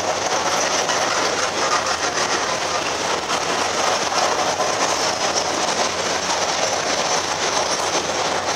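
Hooded covered-steel wagons of a freight train rolling past close by: a steady, loud rumble with wheels clattering on the rails.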